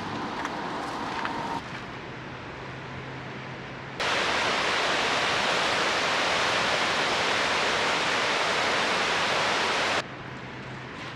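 A steady rushing hiss that cuts in abruptly about four seconds in, holds level for about six seconds, then cuts off just as abruptly. A quieter background with a faint low hum lies either side of it.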